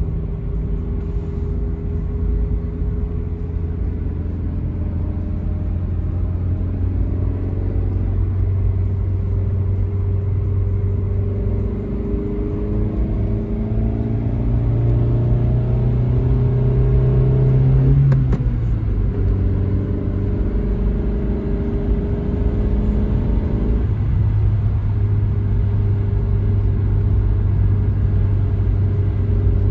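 Toyota Carina E's 1.6-litre 16-valve four-cylinder engine running under way, with a steady low note; about halfway through the engine note climbs for several seconds as the car accelerates, then drops suddenly at a gear change and settles again.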